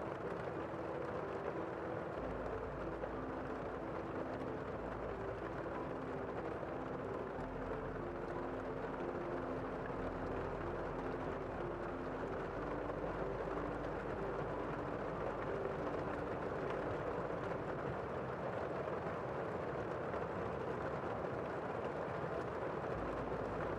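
Steady rain falling, with soft, slow music underneath: a quiet line of held notes stepping up and down over low bass notes that change every few seconds.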